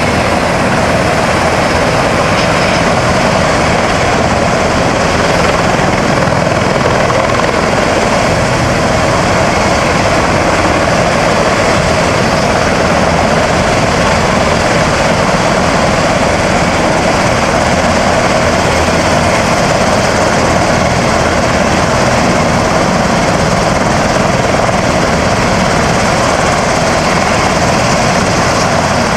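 Helicopter running loud and steady overhead, its rotor and engine noise unbroken.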